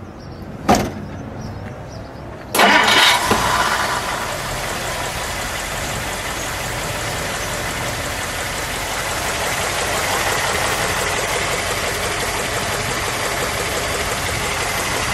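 1959 Plymouth Belvedere's 318 cubic-inch V8 being started: a click about a second in, then the engine catches with a loud burst about two and a half seconds in. It settles into a steady idle that is quiet for the car.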